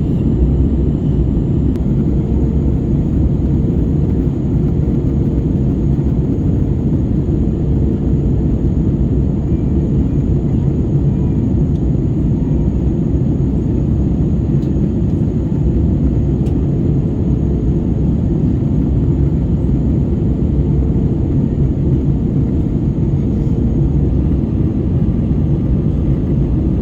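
Steady cabin noise of an Airbus A320-214 in flight: a loud, even low rumble of airflow and its CFM56-5B engines, with a faint hum that comes and goes.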